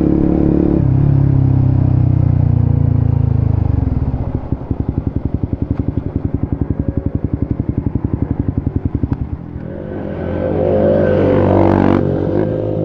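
Suzuki GSX-S150 single-cylinder engine through a Quinze Big Volume aftermarket exhaust. It runs steadily, drops to an idle with a rapid, even putter for about five seconds, then revs up again near the end.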